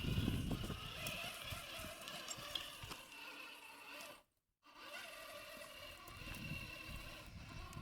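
Electric motor and gear drivetrain of a Rlaarlo JK07PRO 1/7-scale RC crawler whining steadily as it drives, with low rumbling of the truck over rough ground. The sound cuts out completely for a moment a little past halfway.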